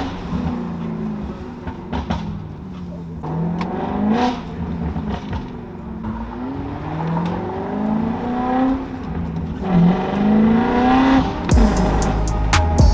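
Car engine revving, its pitch rising and falling several times in a row. Music comes in near the end.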